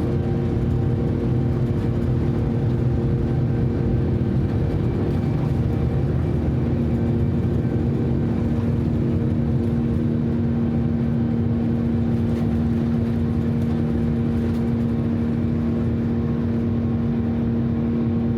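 Jet engine and airflow noise of a Boeing 787-9 (Rolls-Royce Trent 1000 engines), heard inside the cabin during takeoff and climb: a loud, steady rumble with several steady hum tones. One hum grows stronger about six seconds in.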